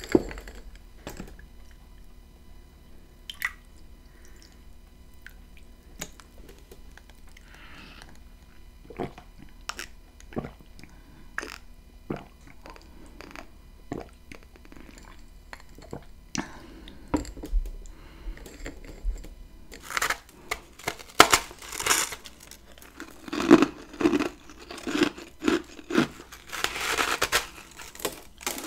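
Close-miked chewing and crunching of chunks of freezer frost ice. There are sparse, crisp crunches at first, then from about twenty seconds in a run of louder bites crunching quickly through the frost.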